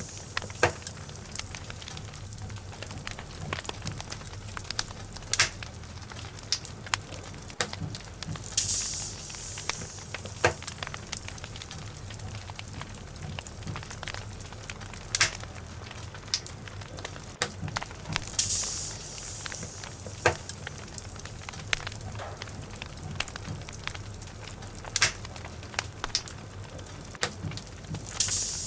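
Wood logs burning in a fireplace: a steady low rumble of flame with irregular sharp crackles and pops, and a brief hiss about every ten seconds.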